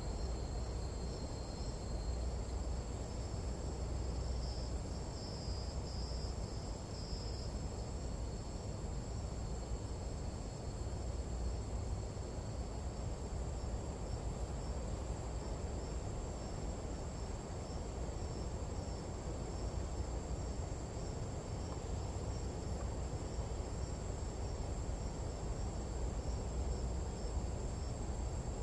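Nighttime tropical jungle insect chorus: several steady, high-pitched insect trills held without a break, over a low rumble of wind.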